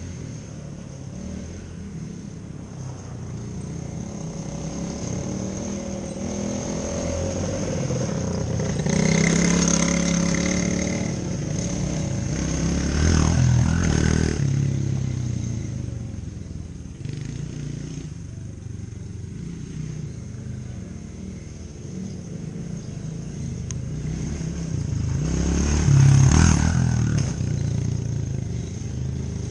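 Small off-road vehicle engine riding past again and again, its pitch rising with the throttle and dropping as it goes by. It passes close several times, loudest near the end.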